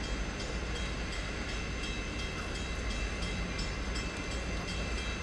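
Freight train rumbling steadily, a deep even rumble with faint high steady tones over it.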